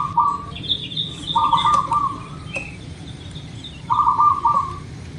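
Zebra dove (perkutut) cooing: two short trilled phrases of quick notes about two and a half seconds apart, the tail of a third just at the start. Fainter, higher chirps of a small bird fall between the phrases.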